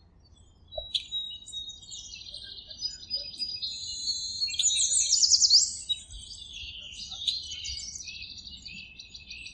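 Birds chirping and singing, with several overlapping high calls and trills. About five seconds in comes the loudest part, a quick run of repeated downward-sweeping notes.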